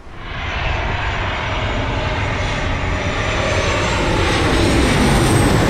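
Airplane engines running loud and close: a low rumble under a high whine, growing louder, with the whine dipping slightly in pitch near the end.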